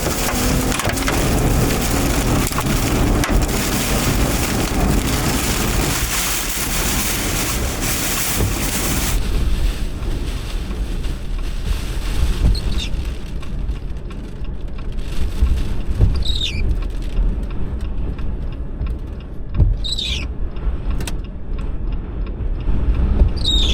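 Inside a car driving through a thunderstorm: a dense rush of rain or hail on the vehicle, which drops away suddenly about nine seconds in to steady road rumble. Short falling squeaks, like windshield wipers, come about every four seconds.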